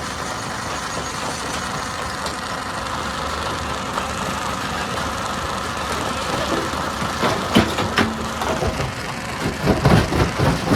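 Stone crusher machinery running with a steady mechanical drone. Near the end come two sharp cracks, then a quick run of loud knocks at about three a second as rock is being crushed.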